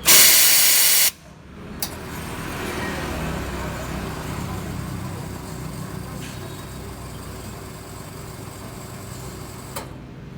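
Espresso machine steam wand blasting a loud hiss for about a second, then a steadier, quieter hiss over a low hum.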